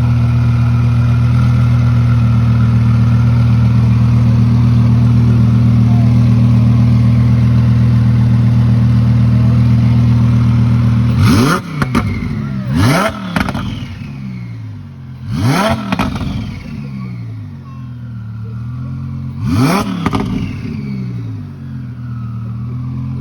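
Weistec Stage 1 twin-turbo Audi R8 engine idling loudly and steadily, then revved four times about halfway through in quick blips that rise and fall in pitch, with sharp cracks at the top of the revs. It is tuned to about 750–800 wheel horsepower.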